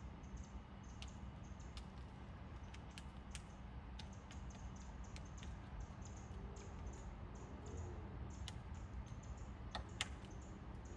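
Woodpecker pecking at wood: sharp single taps at an irregular pace, not a drum roll, with a louder strike near the end, over a steady low hum.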